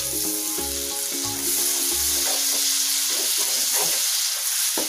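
Onion masala sizzling in hot oil with a little water just added, while a spatula stirs and scrapes it around the frying pan. Background music with a beat plays for the first couple of seconds, then stops.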